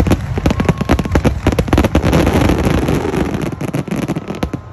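Dense fireworks barrage: aerial shells bursting in rapid, overlapping bangs, many per second, with crackling between them.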